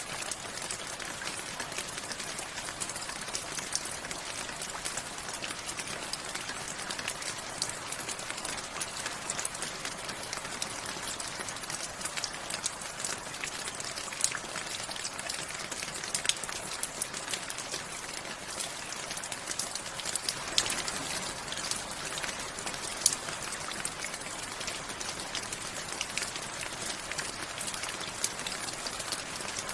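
Steady rain: an even hiss with many separate drops ticking close by.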